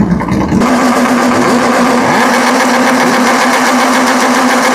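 MRF Formula 2000 race car's 2-litre engine running hard at steady high revs. A low rumble in the first half second gives way to the steady high engine note.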